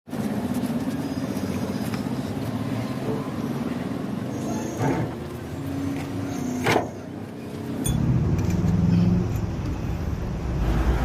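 A vehicle engine running steadily, with two short sharp knocks about five and seven seconds in. About eight seconds in, the low engine note grows deeper and louder.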